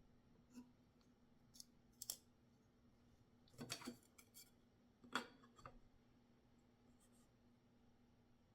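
Titanium framelock flipper knife being handled, giving a series of sharp metallic clicks and snaps, the loudest about five seconds in.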